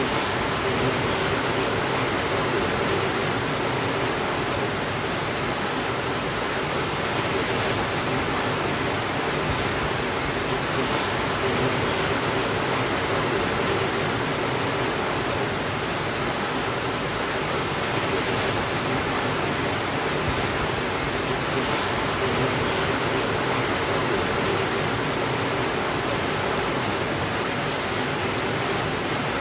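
Steady rainfall, an even, unbroken hiss that does not rise or fall.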